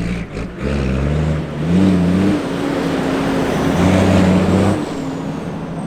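Tatra Dakar rally truck's diesel engine revving hard under load, starting abruptly; the revs climb about two seconds in, hold high, then ease off about five seconds in.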